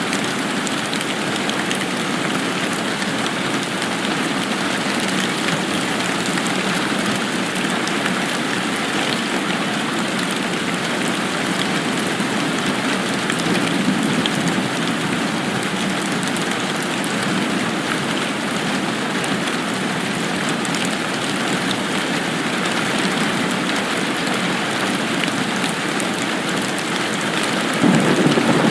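Steady rain falling, a dense even hiss of drops. A louder low rumble swells in near the end.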